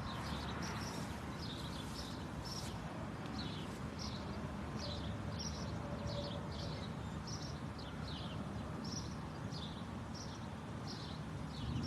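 Small birds chirping, short high calls repeating two or three times a second over steady low background noise.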